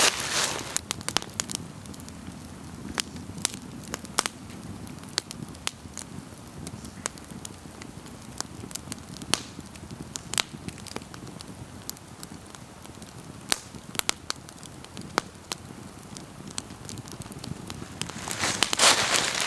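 Small wood campfire crackling, with sharp irregular pops and snaps over a low hiss of burning. A louder rushing noise comes in near the end.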